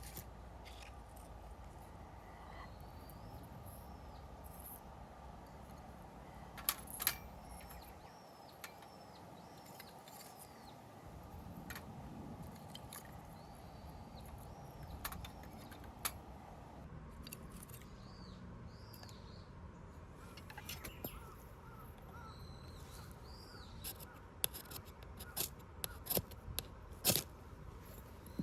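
Wild birds calling again and again in short chirps, over a steady outdoor hush. Scattered sharp clicks and light knocks come through it, more of them near the end.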